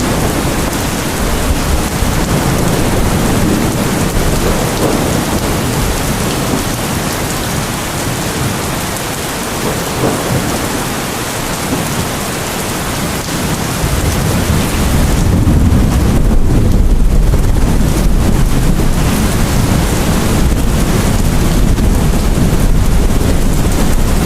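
Steady rain falling, with a deep low rumble of thunder building up and getting louder about two-thirds of the way through.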